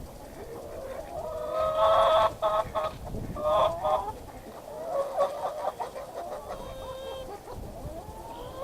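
Backyard chickens clucking and calling, a series of separate calls one after another.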